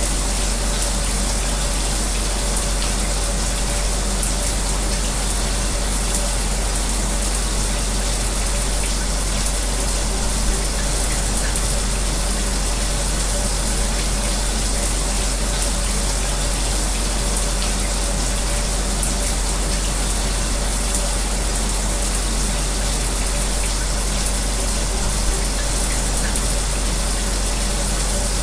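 Shower running steadily together with an electric fan's constant whir and low hum, an even wash of white noise.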